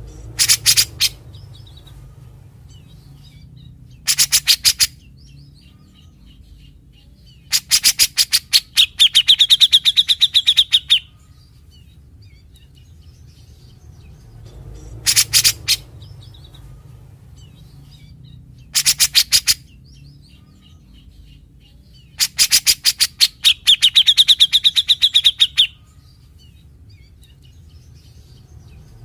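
Grey-cheeked bulbul (cucak jenggot) singing: short bursts of rapid, harsh rattling notes (its typical besetan). Two of the bursts run on into a fast, high trill. The same sequence of bursts comes round again about every 14 seconds.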